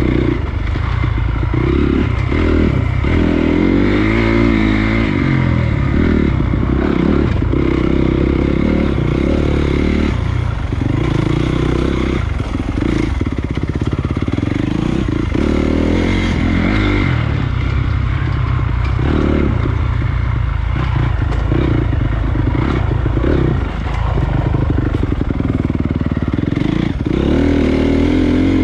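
Honda CRF250 dirt bike's single-cylinder four-stroke engine running under load on a trail, its pitch rising and falling with the throttle, with several brief dips where the throttle is rolled off.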